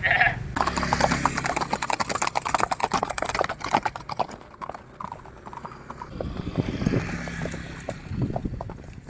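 Horse hooves clip-clopping in a quick, dense run of strikes that thins out to scattered footfalls about halfway through.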